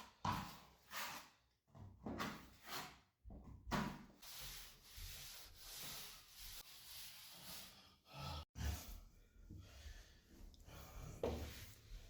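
Hand tool rubbing across drywall in repeated strokes, about one or two a second at first, then a steadier rubbing, with a brief stop a little past the middle.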